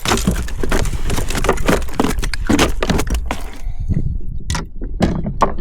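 Fishing tackle rattling and clicking against the kayak as a small fish is brought aboard, a dense run of rattles over a low rumble. The rattling thins to a few sharp clicks after about three and a half seconds.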